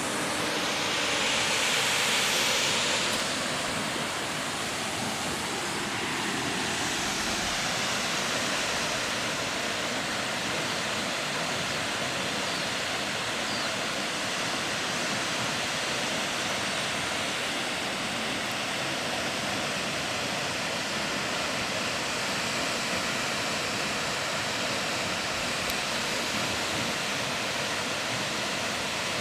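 Jaein Falls, a waterfall, rushing steadily as an even wash of white noise, briefly louder and brighter about a second in.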